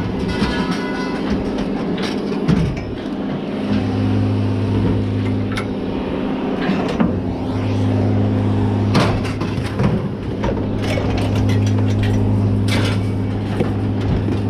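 Pieces of scrap metal clanking and knocking as they are handled and unloaded, over a steady low mechanical hum that drops out briefly twice.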